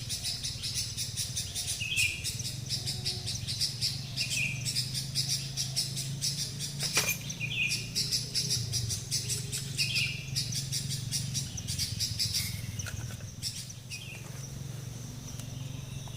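A bird known locally as the teteli giving a short call every two to three seconds, over a dense, rapid high buzzing of forest insects that eases off near the end and a steady low hum.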